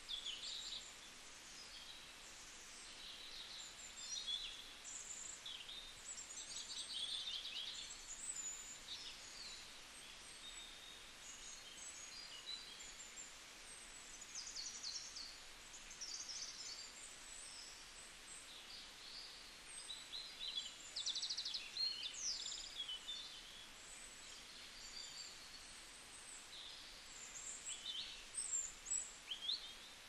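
Several small birds chirping and twittering, many short high calls and quick trills overlapping at irregular intervals, over a faint steady background hiss.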